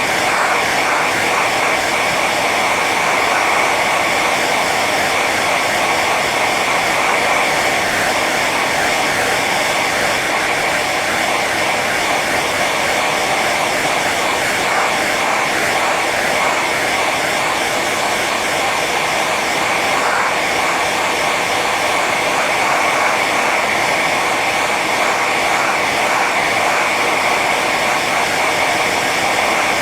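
Hair dryer running steadily on its high setting: a constant rush of blown air with a steady whine from the fan motor.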